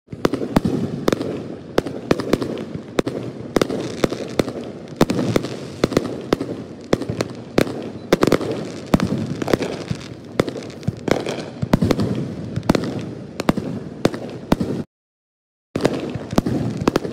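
Aerial firework shells bursting in rapid succession in the finale of a display: several sharp bangs a second over a continuous rumble. The sound cuts out completely for under a second near the end, then resumes.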